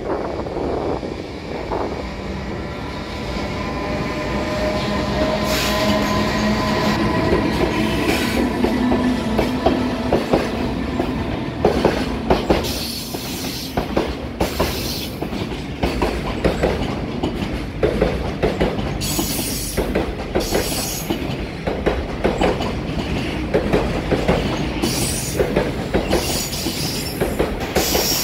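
A JR Freight EH500 electric locomotive and a long train of Koki container flatcars passing through at speed. A steady tone comes from the locomotive for the first several seconds, then the wagons' wheels keep up a rhythmic clickety-clack over the rail joints, with recurring bursts of high wheel squeal.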